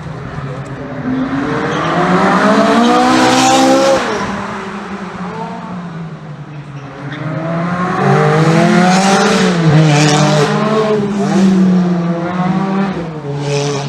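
Car engines revving hard on a race circuit: one accelerates, its pitch rising until it cuts off sharply about four seconds in. Then another climbs through the gears, dropping in pitch at each upshift, and fades near the end.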